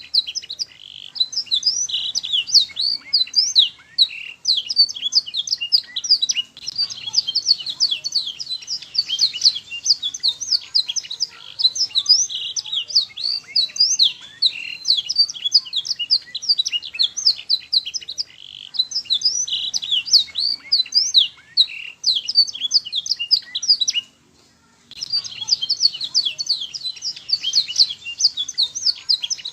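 Domestic canary singing a long, fast song of rapid chirps and rolling trills, with one short break about three quarters of the way through. This is a tutor song played to young canaries so that they start singing.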